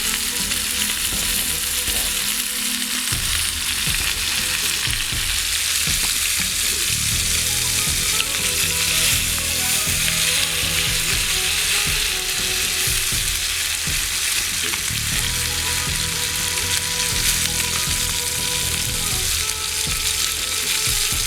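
Butterflied Cornish game hen sizzling steadily as it sears in a hot cast iron skillet.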